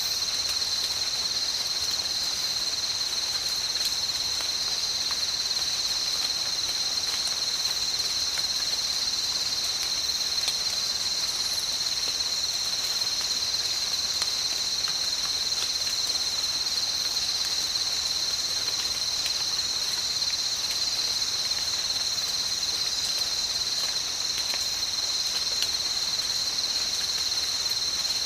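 Steady, high-pitched chorus of insects in a tropical ambience, holding an unbroken shrill at two pitches, with faint scattered ticks beneath it.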